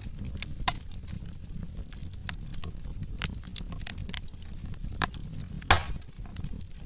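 Wood fire burning in a fireplace: irregular sharp crackles and pops from the burning logs over a steady low rumble of flame, with one louder pop near the end.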